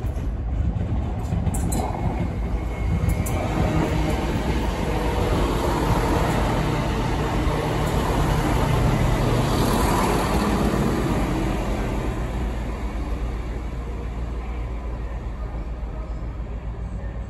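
Diesel multiple unit passing close by along a station platform, its underfloor engines and wheels rumbling on the rails. The sound builds to its loudest about halfway through, then eases off.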